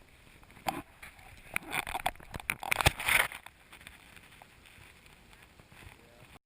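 Irregular crunching, knocking and rustling, like footsteps and movement in snow, close to a GoPro; it dies down about three seconds in.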